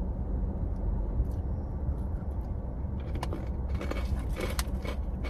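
Hard pretzel pieces crunching as they are chewed, starting about three seconds in, over a steady low rumble inside a car.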